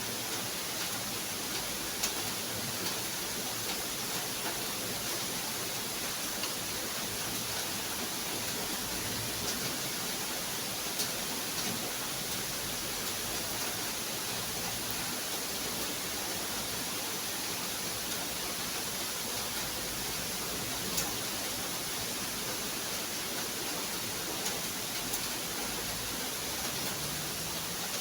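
Steady rain falling: an even hiss, with a few sharp ticks of single drops here and there.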